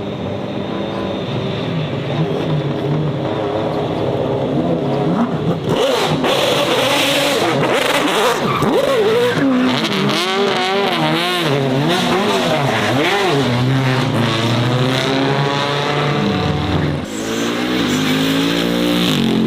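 Racing car engine running loud, then revved up and down in quick swings of pitch from about six seconds in, before a steady rise in pitch as it accelerates near the end.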